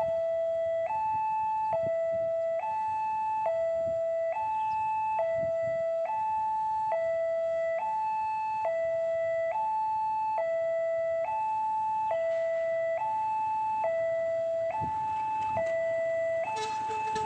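Electronic level-crossing warning alarm sounding continuously, alternating between two pitches with each tone held just under a second. Near the end a second, faster-pulsing tone joins in.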